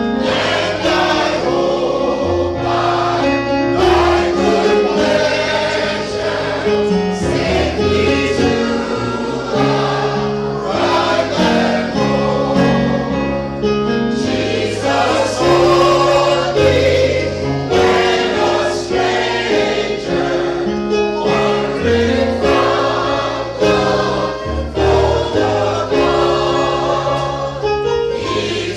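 A choir singing gospel music with instrumental accompaniment.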